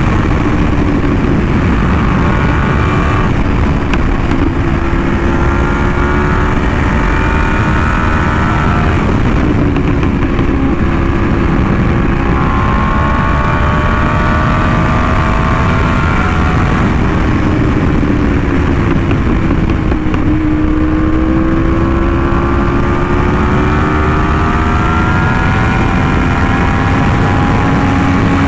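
Yamaha R1M's crossplane inline-four through an SC Project exhaust while riding at moderate speed, the engine pitch rising and falling gently several times with throttle and gear changes, over a steady rush of wind.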